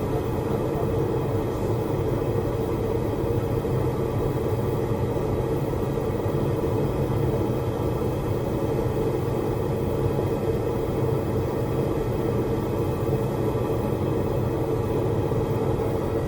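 Forge running with a steady, unchanging rushing noise, strongest in the low range, with no hammer blows.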